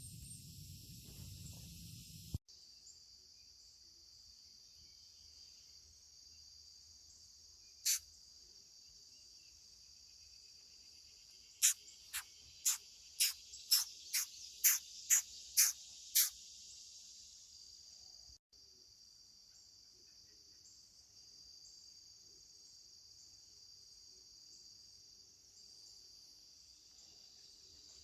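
Steady high-pitched chorus of insects such as crickets. About eight seconds in one sharp downward-sweeping chirp, and around twelve seconds in a run of about ten quick downward chirps, roughly two a second, louder than the chorus.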